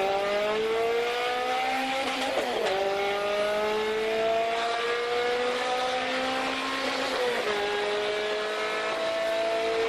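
Honda K20 four-cylinder engine under hard acceleration, its pitch climbing steadily through each gear and dropping sharply at upshifts about two and a half and seven seconds in.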